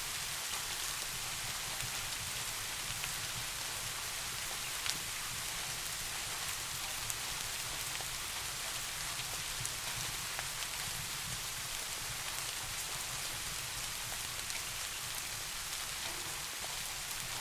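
Steady rain falling, an even hiss with a few sharp single drop ticks.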